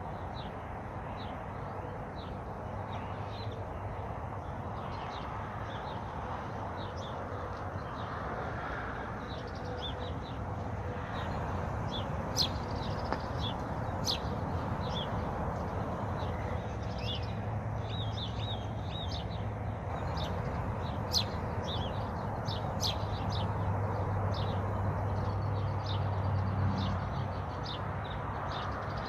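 Small songbirds chirping and twittering, many short quick calls overlapping, busier in the second half, over a steady low background rush and hum.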